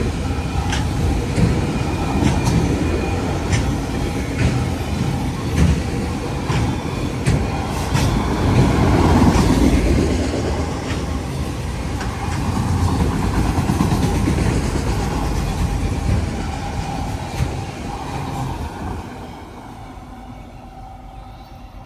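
Freight train rolling past with a steady rumble, its steel wheels clicking over rail joints; the sound falls away near the end as the train clears.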